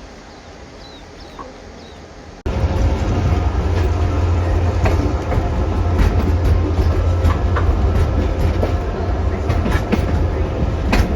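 Quiet background with a few faint high chirps, then an abrupt cut about two seconds in to a Kuranda Scenic Railway train running along the track. The train makes a loud, steady low rumble with frequent wheel clicks and rattles.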